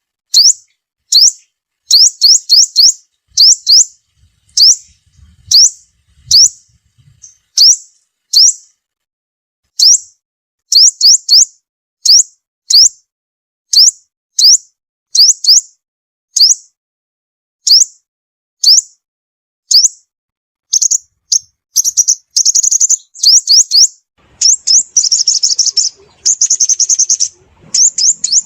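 Sunbird giving sharp, high chirping calls repeated about once or twice a second, often in quick pairs or triplets, breaking into faster, denser chattering near the end.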